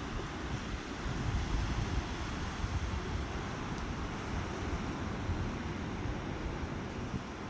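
Wind buffeting the microphone: a steady rushing noise with choppy low rumbling gusts.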